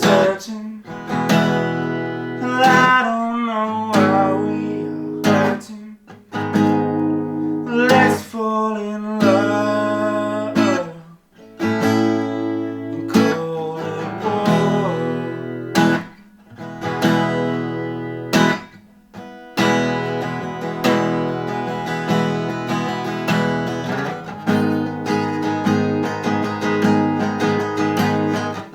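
Acoustic guitar playing a song, its chords ringing and fading, with brief dips a few times.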